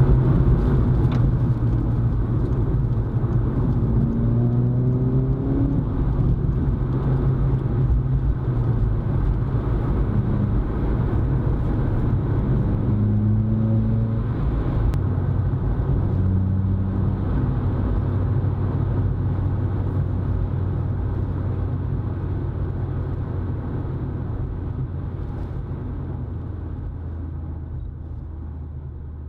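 VW Polo GTI's turbocharged 1.8 TSI four-cylinder engine and stainless resonated turbo-back sports exhaust heard from inside the cabin while driving, a steady low drone. It fades gradually over the last several seconds.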